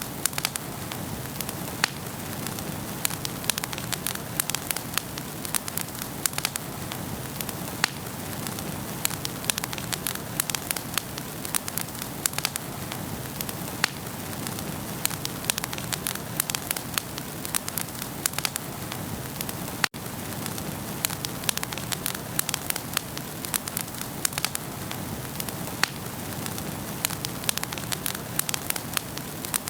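Wood fire burning in a fireplace, with constant crackling and popping over a steady hiss. The sound drops out for an instant about two-thirds of the way through.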